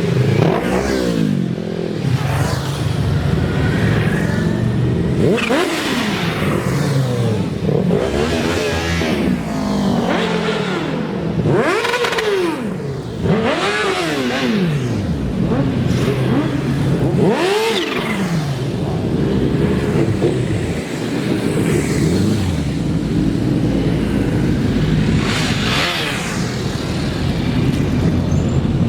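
Motorcycle engines revving and passing, their pitch sweeping up and down again and again over a steady bed of engine and road noise.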